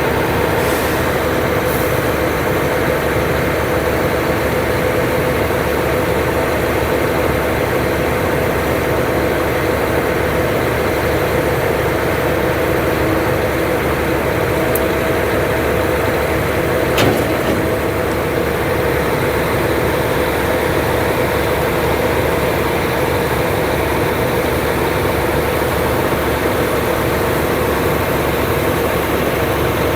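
Heavy diesel engines running steadily, from the concrete pump machine and the ready-mix mixer trucks feeding it concrete for a roof slab. A short sharp click comes about 17 seconds in.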